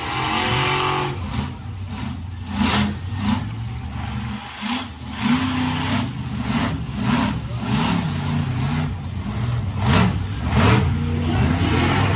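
Monster truck engine revving over and over, its pitch rising and falling every second or so.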